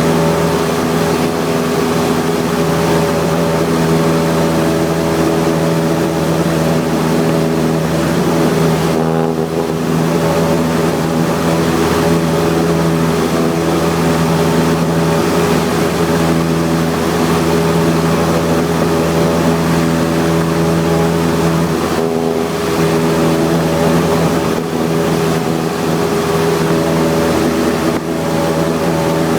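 Cessna 172's piston engine and propeller running steadily, heard from inside the cabin as a loud, even drone, with a couple of brief dips in the hiss.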